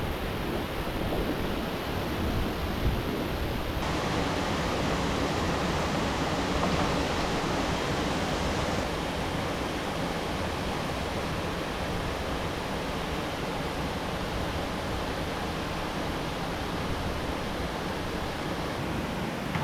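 Steady rush of flowing river water, an even noise with no distinct events; its tone shifts slightly about four seconds in and again around nine seconds.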